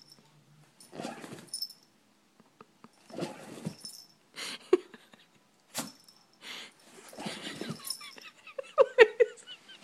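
Pet dog sneezing over and over, about six short sharp sneezes a second or so apart, then a quick run of high squeaky little cries near the end.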